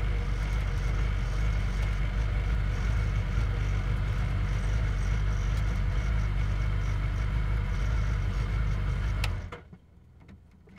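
Open-cockpit race car's engine idling steadily as the car creeps to a stop, heard from the driver's seat. The engine note cuts off suddenly about nine seconds in as it is switched off, leaving only a few faint clicks.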